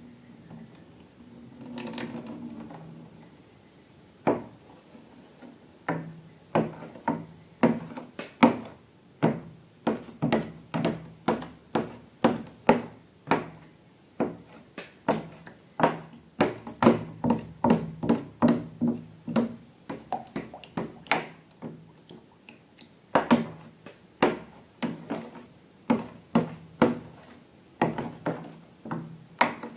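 Slime being squeezed and worked by hand, making a long run of short, sticky wet clicks and squelches, about one to two a second, that come faster from the middle on.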